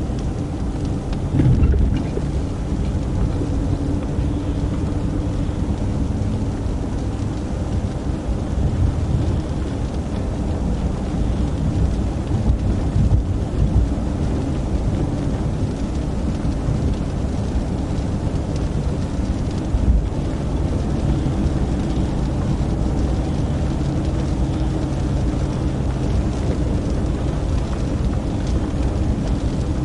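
Steady low rumble of a police car's engine and road noise, with a few brief knocks.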